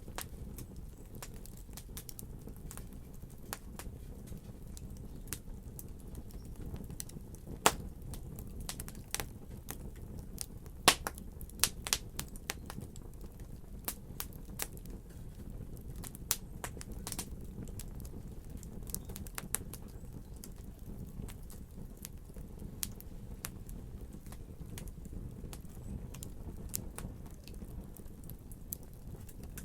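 Wood fire crackling: irregular sharp pops and snaps over a steady low rumble of the flames, with a busier run of louder pops about a third of the way in.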